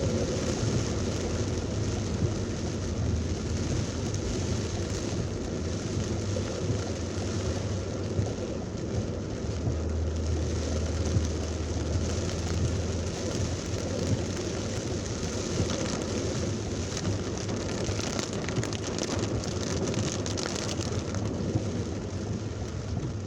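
Heavy thunderstorm rain pouring down in a steady hiss, with a low rumble for a few seconds near the middle.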